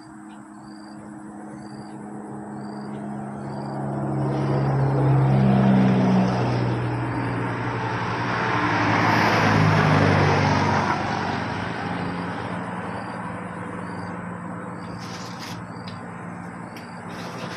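Road traffic passing close by: engine hum and tyre noise build up, peak twice around the middle, then fade away.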